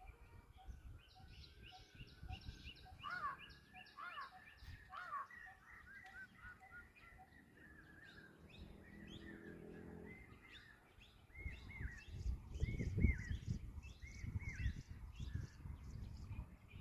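Several small birds chirping and calling outdoors, with quick repeated short arched notes, over a low rumbling noise that grows louder in the second half.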